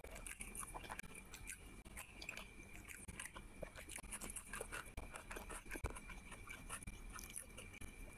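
Close-miked chewing of rice and curry eaten by hand, with many short wet mouth clicks and a crunchy bite of raw green chilli.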